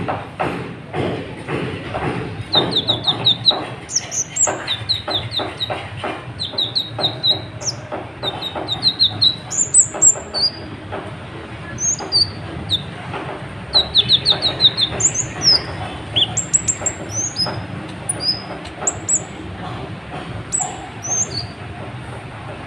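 Kolibri ninja sunbird singing: a steady run of sharp, high chirps and quick little trills of four or five notes, one phrase after another. Under it runs a constant layer of clicking and noise.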